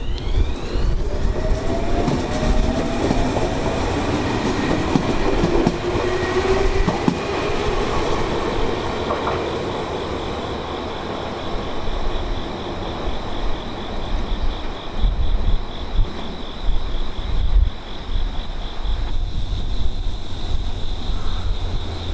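Tobu Tojo Line electric train pulling away, its traction motors whining and rising in pitch over the first several seconds, with wheels clattering on the rails. Strong wind buffets the microphone throughout, and from about halfway a steady, high pulsing tone sounds.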